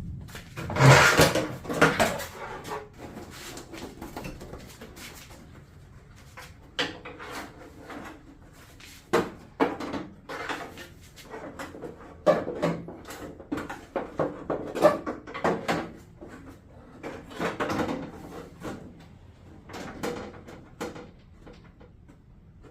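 Plastic shroud covers of an exercise bike being handled and fitted back onto the frame: irregular clunks, knocks and rattles, loudest about a second in.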